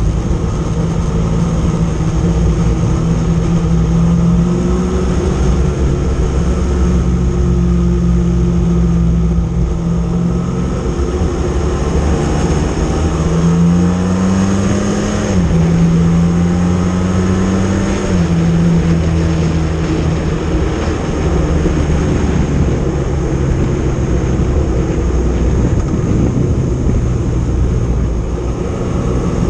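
Motorcycle engine running steadily while under way, heard from on the bike. Its note climbs briefly about halfway through, then drops back down in a couple of steps.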